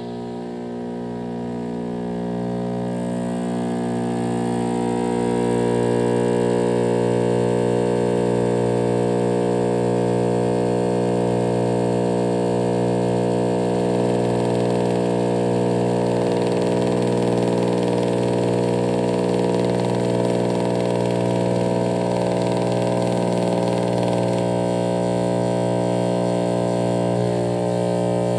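2012 Pelonis Elite heat pump running with a steady, many-toned hum, growing louder over the first several seconds as it starts up, then holding steady.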